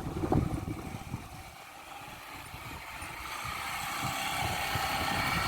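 Motorcycle engine running, growing steadily louder over the last few seconds, with wind rumbling on the microphone.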